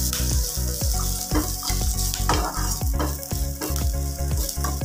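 Curry leaves sizzling in hot oil in a nonstick kadai, stirred with repeated spatula strokes across the pan, being fried until crisp.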